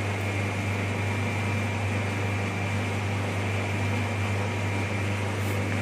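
Slicer-planer machine running steadily with no load change: a constant low hum with a thin, steady high whine.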